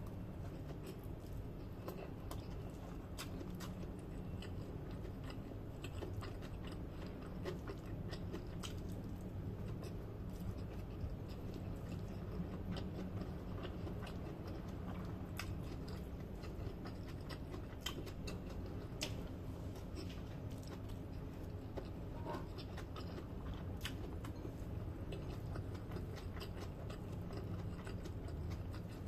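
Close-up chewing of fried rice eaten by hand, with soft mouth clicks and smacks scattered throughout, over a steady low hum.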